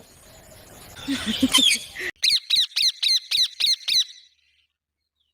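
Pet rose-ringed parakeet squawking: a few calls, then a quick run of about eight harsh screeches, roughly four a second, that cuts off suddenly about four seconds in.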